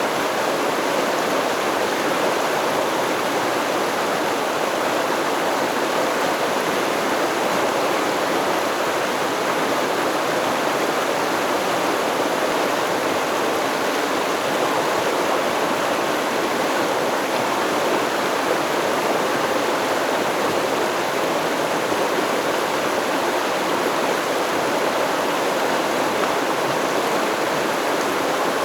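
Steady rush of a flowing stream, water running over rocks, with no birds or other sounds in it.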